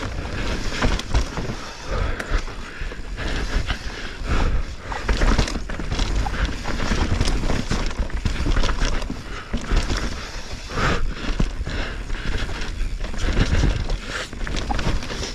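Mountain bike riding fast down rough dirt singletrack: tyres rolling over dirt and roots, with the bike rattling and knocking over the bumps the whole way, over a steady low rumble of wind on the camera microphone.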